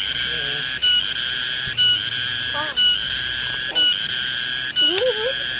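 A loud, high-pitched, whistle-like buzz that pulses evenly, breaking off about once a second with a short lower note in each gap. Near the end there are a few brief gliding calls lower down.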